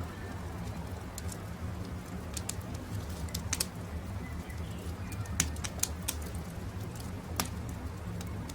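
Campfire crackling, with scattered sharp pops (the loudest about five seconds in) over a low steady rumble. Birds call faintly in the background.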